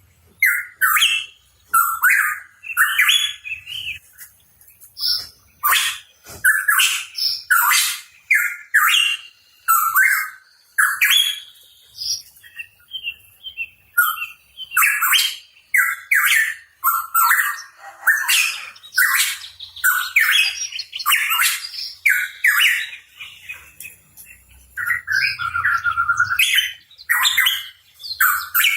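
Pitohui calling: a dense run of short chirps and whistled notes, with brief pauses between phrases.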